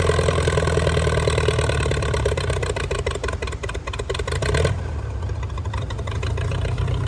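Antique tractor engine running under pulling load with a steady low note and a throbbing beat. About two-thirds of the way through the higher sound drops away suddenly while the engine runs on. The owners say the engine has a valve trying to stick and needs its cylinder heads worked on.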